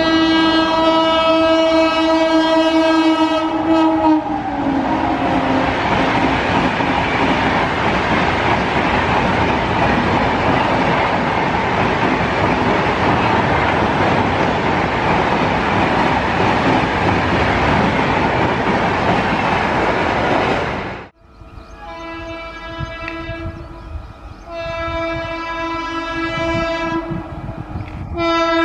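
Electric train horn held in a long blast that drops in pitch as the train passes, followed by the loud rush and wheel clatter of the train speeding by for about seventeen seconds. The sound then cuts off abruptly, and a train horn sounds again in several separate blasts.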